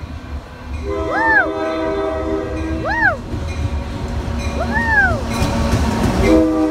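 Union Pacific freight locomotive's horn sounding a steady chord, once from about a second in for two seconds and again near the end, over the low rumble of the passing train. A person whoops 'woo' four times, each yell rising and falling in pitch.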